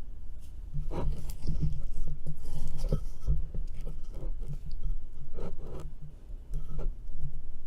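A spoon or spatula scraping and spreading thick sugary cream cheese mixture, in irregular strokes.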